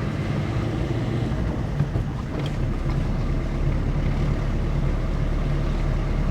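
Steady engine and road noise of a car driving along a winding hill road.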